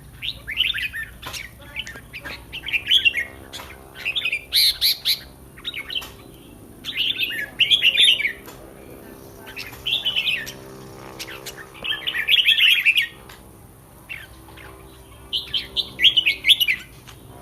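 Red-whiskered bulbul singing short, bright warbling phrases, repeated every second or few, with brief pauses between them.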